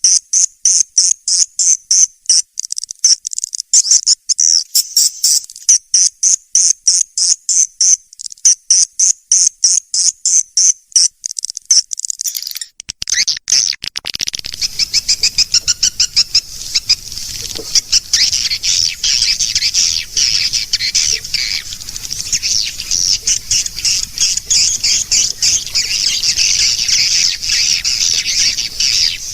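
Recorded swiftlet calls of the kind played as a lure: rapid, evenly repeated high chirps of about three a second. About halfway through they break off and give way to a denser, continuous high twittering over a faint hiss.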